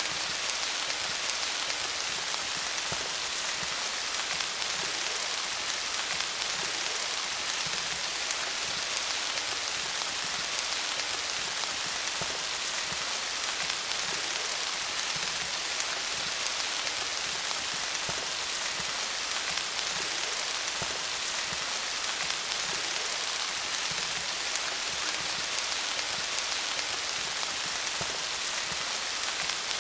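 Steady rain falling on leaves: a constant even hiss of many small drop patters, with no change in strength.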